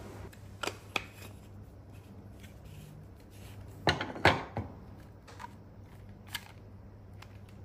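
Short clicks and knocks of a portable espresso machine's parts being handled while its powder basket is refilled with ground coffee. There are a few scattered clicks, with a louder cluster of three knocks about four seconds in.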